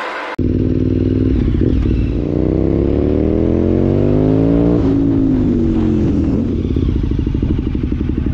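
KTM 990 Super Duke's V-twin engine, heard from the rider's seat, pulling hard with its pitch rising for about three seconds, then dropping away as the throttle closes and the bike slows, running on at a lower steady note.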